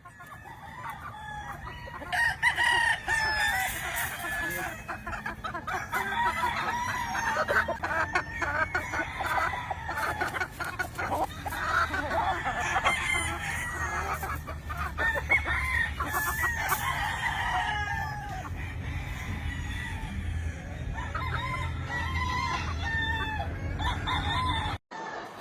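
A flock of gamefowl clucking and calling over one another, with roosters crowing now and then. A low steady hum runs underneath.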